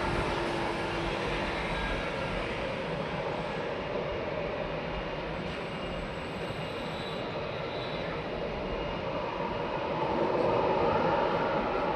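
Jet engines of an Airbus A321-211, its CFM56 turbofans, running with a steady rushing noise that grows a little louder about ten seconds in.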